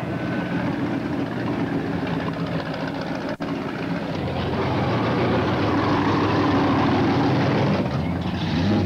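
Modified cars' engines running as the cars drive slowly past one after another, one growing louder over the second half. The sound drops out for an instant about a third of the way through.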